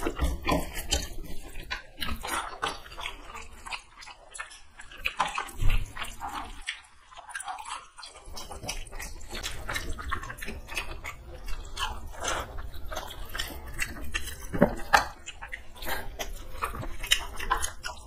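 Close-miked eating of rice by hand: chewing and lip-smacking with many small wet clicks, along with fingers mixing rice on the plate. There is a short lull about seven seconds in.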